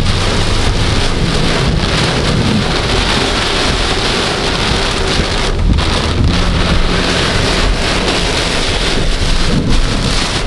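Heavy rain falling on a car's windscreen and roof, heard from inside the moving car as a loud, steady, dense hiss, with a low hum of engine and road underneath.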